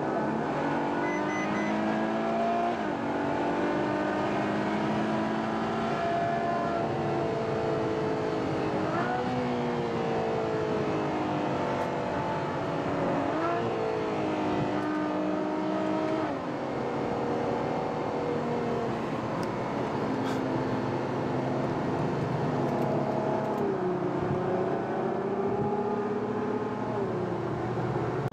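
Ferrari FF's V12 engine heard from on board while driving, its note rising and falling with the revs through several gear changes.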